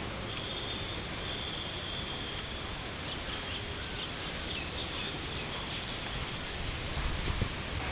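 Steady outdoor background hiss, with a faint high whistle early on and a few short high chirps around the middle.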